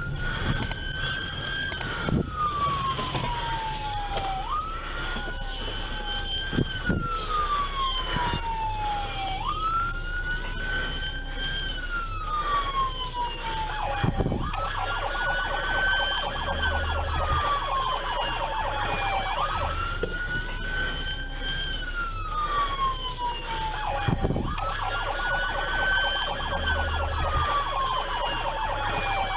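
Police car siren on a wail, each cycle rising quickly and then falling slowly, repeating about every five seconds.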